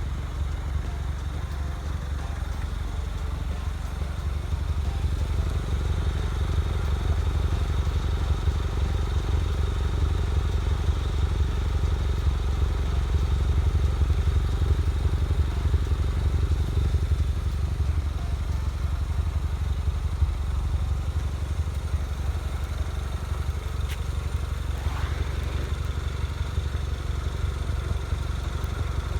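Citroën DS3 Racing's turbocharged 1.6 THP four-cylinder engine, fitted with a carbon intake kit, running steadily at idle.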